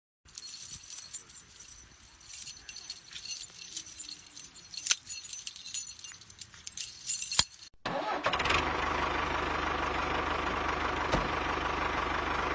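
Rattling and sharp clicks for the first several seconds, then from about eight seconds in a steady engine running noise.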